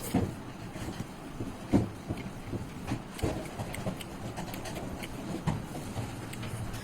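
A person chewing and eating curry with rice: irregular wet mouth clicks and smacks, the loudest about two and three seconds in.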